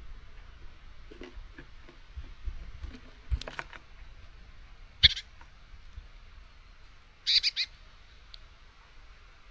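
Small songbirds at a seed feeder: scattered taps and knocks of birds landing and pecking at seed, one sharp click about five seconds in, then three quick chirps near the end.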